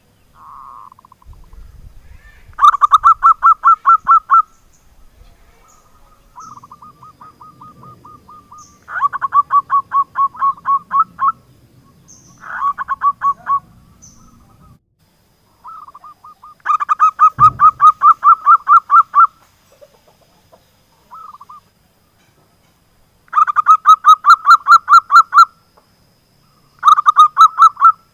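Zebra dove (perkutut) cooing in rapid trains of pulsed notes, about six to eight notes a second, each phrase lasting one to two and a half seconds and repeated several times with short pauses. A single low thump comes about halfway through.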